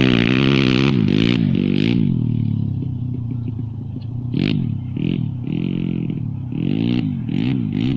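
140cc pit bike's single-cylinder four-stroke engine being revved: it holds high revs at first, falls back toward idle, then gets a series of short throttle blips, each rising and falling quickly.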